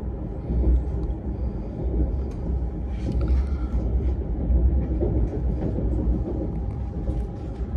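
Steady low rumble of a modern passenger train running at speed, heard from inside the carriage, with a faint steady whine and a few light ticks over it.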